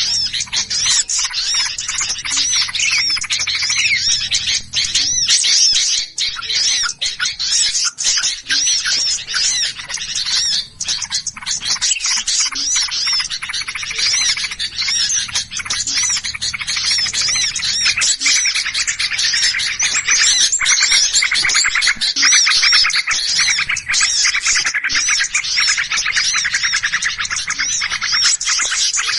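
A dense chorus of many small songbirds chirping and scolding at once, rapid overlapping high calls without a break: the noisy, agitated calls ('burung ribut') played as a lure to draw small birds in.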